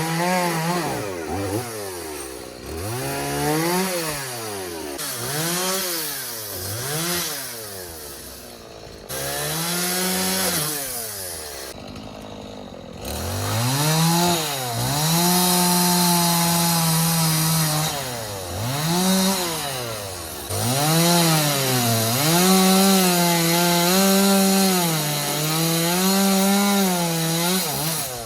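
A Stihl MS 180 chainsaw cutting wood. Through the first half it revs up and drops back to idle every second or so, and from about halfway it holds full throttle for longer cuts of a few seconds each.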